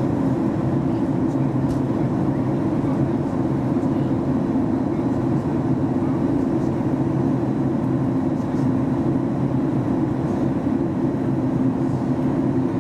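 Steady cabin drone of a Boeing 737 MAX 8-200 in flight, heard from inside the passenger cabin: a constant rush of airflow with a low, even hum from its CFM LEAP-1B engines.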